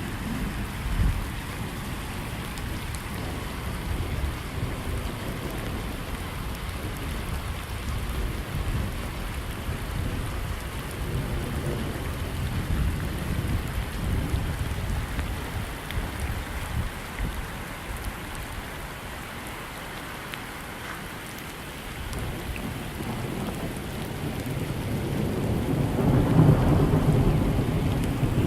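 Heavy rain falling steadily, with low rumbling that swells louder near the end.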